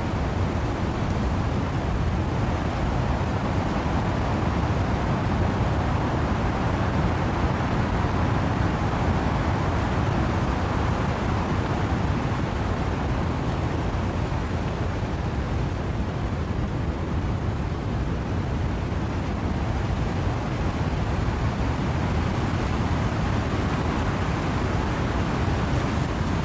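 Wind and rain in trees, a steady, even rushing with no single gusts or drops standing out.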